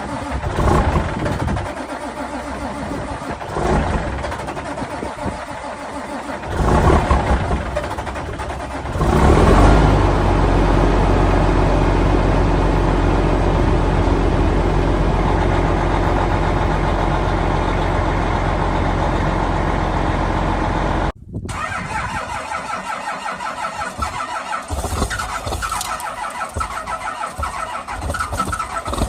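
Diesel truck engine being cold-started: short bursts of cranking and firing, then it catches and runs loudly and steadily. Near the end an abrupt cut leads to a diesel engine idling with a rapid pulsing clatter.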